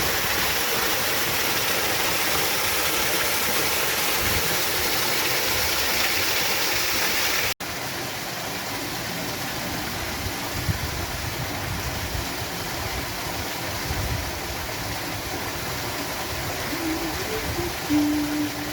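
Waterfall's rushing water, a steady loud roar of falling water. It cuts out for an instant a little over a third of the way in and resumes slightly quieter, with a few short pitched notes near the end.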